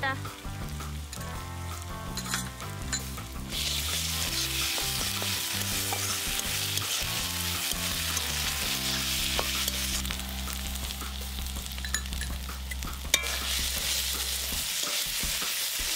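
Sliced onions, green chillies and ginger-garlic paste frying in oil in a wide metal kadai, sizzling while a metal spatula stirs and scrapes the pan. The sizzle grows much louder a few seconds in and stays strong, with one sharp clink of the spatula near the end.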